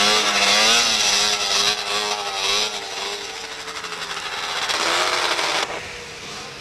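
Two-stroke racing snowmobile engines running loud, with a high rasp and a pitch that wavers. The sound eases after about two seconds, swells again, then drops off abruptly near the end.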